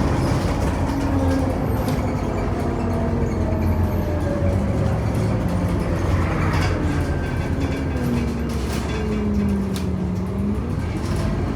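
Interior of a Scania Omnicity city bus on the move: a steady engine and road rumble, with a drivetrain whine that falls slowly in pitch as the bus slows, and scattered light rattles from the cabin.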